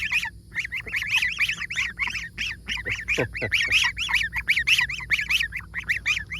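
A group of goslings peeping rapidly and continuously, many short high calls overlapping, with a few lower falling calls about halfway through.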